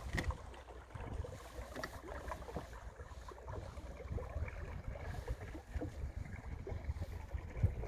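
Water trickling and lapping against the hull of a small sailboat under sail, many small gurgles and ticks, over a low wind rumble on the microphone.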